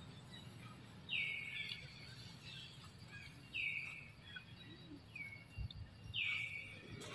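A bird calling four times, each a short call that drops in pitch, the third one fainter, over low steady background noise.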